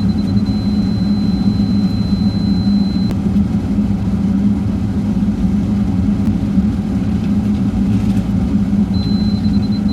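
Diesel engine of heavy construction equipment running steadily, with a thin high-pitched whine over it for the first three seconds and again near the end.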